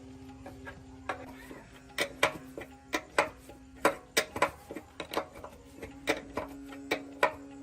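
Irregular sharp metallic clicks and taps, about three a second, from about two seconds in, like hand tools knocking against steel parts, over a steady hum.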